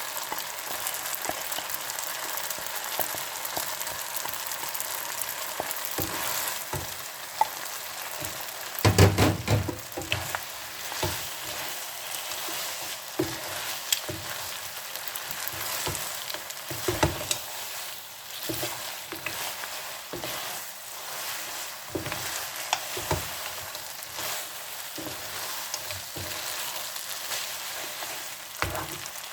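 Spaghetti and seafood sauce sizzling steadily in a pan as it finishes cooking, with scattered knocks and scrapes, and one louder clatter about nine seconds in.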